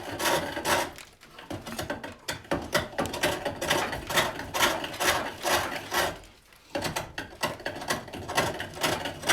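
Hook tool cutting wood on a foot-powered pole lathe: a rapid run of scraping cutting strokes that pauses briefly about a second in and again near six seconds in.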